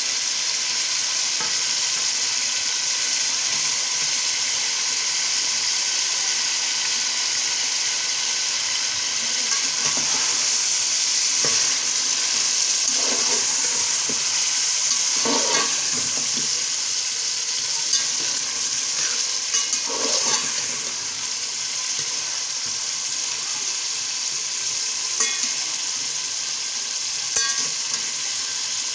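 Beef, potato and tomato masala sizzling steadily as it is fried in a metal pot, with a metal slotted spatula stirring it and scraping and knocking against the pot now and then, most around the middle. This is the frying-down (bhuna) of the spices with the meat and potatoes.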